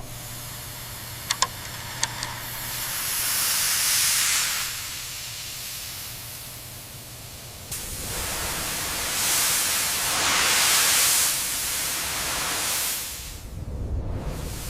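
Steam locomotive boiler venting steam as it comes up to pressure: a hiss that swells around four seconds in and again, louder, from about nine to thirteen seconds, with a few small clicks near the start and a low steady hum in the first half.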